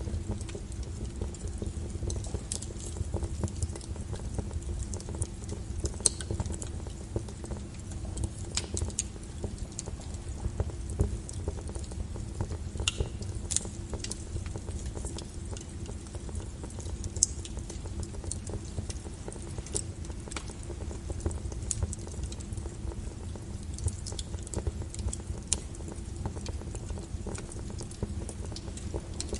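Wood logs burning in a fireplace: a steady low rumble of the fire with irregular sharp crackles and pops, a few of them louder than the rest.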